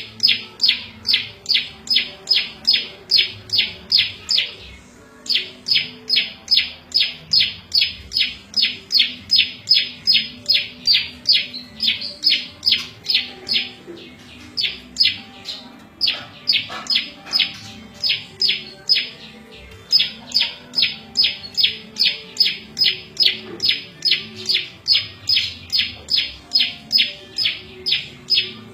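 Prenjak lumut song: a long run of short, high chirps repeated about three times a second, broken by a few brief pauses.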